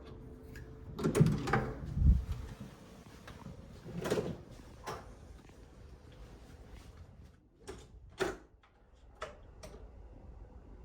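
Room fittings being opened and closed: a series of clicks and knocks, with a heavier thump about two seconds in.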